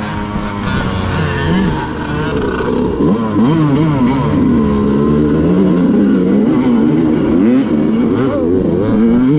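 Dirt bike engines revving, more than one at once, their pitch rising and falling repeatedly as the throttles are worked.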